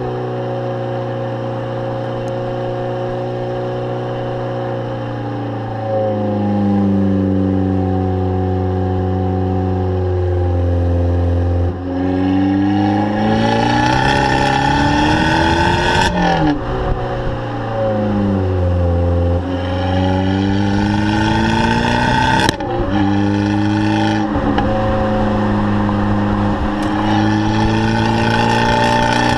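Exhaust of an Abarth 500's turbocharged 1.4-litre four-cylinder engine, running steadily at first and then revving up and back down twice. There is a sharp crack at the top of the first rev and another about six seconds later.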